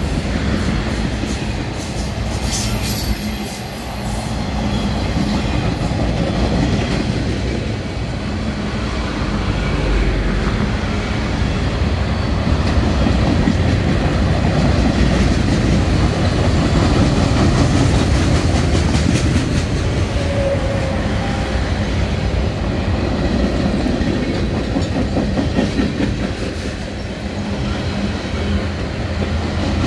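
Loaded freight flatcars rolling past, giving a steady noise of steel wheels running on the rails.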